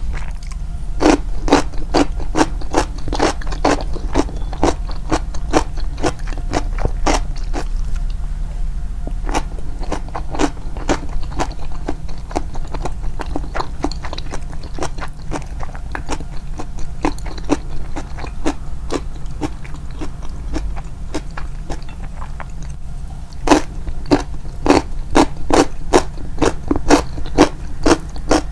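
Close-up crunchy chewing of crisp nukazuke, Japanese rice-bran pickled vegetables: sharp crunches about two a second, sparser through the middle and coming thick again near the end, over a steady low hum.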